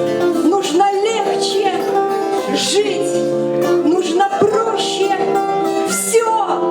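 A woman singing with acoustic guitar accompaniment, her voice wavering with vibrato over the plucked chords.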